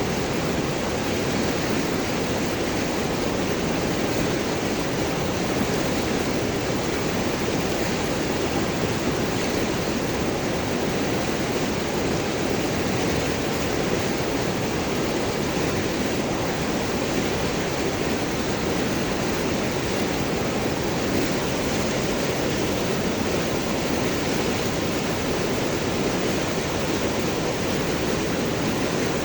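River water flowing and gurgling over large rocks, a steady, unbroken rush.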